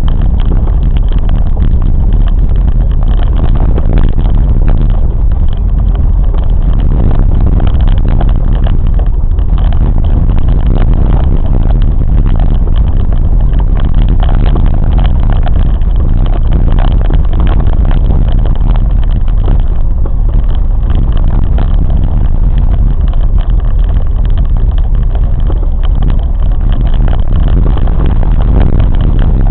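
Train in motion: a loud, steady, deep rumble with no break.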